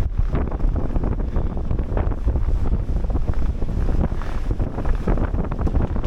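Gale-force mountain wind buffeting the microphone: a loud, constant low rumble of wind noise with gusty thumps.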